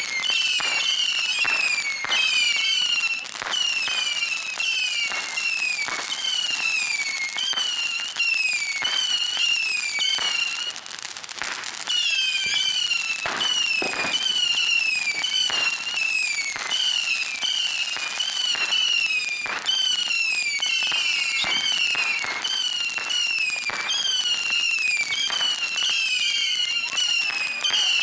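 A long-running whistling firework sends out a steady stream of shrill whistles, one after another. Each whistle falls in pitch, and sharp pops and crackles run through the stream.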